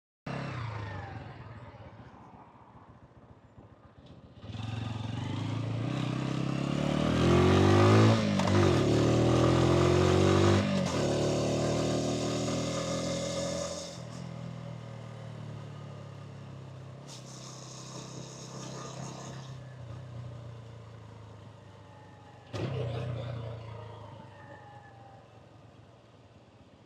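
Hansom Bike Benet 125cc motorcycle engine and exhaust pulling away and accelerating, its pitch climbing with brief breaks about eight and eleven seconds in, then easing off to a lower steady run after about fourteen seconds. A second short surge of throttle comes near twenty-three seconds.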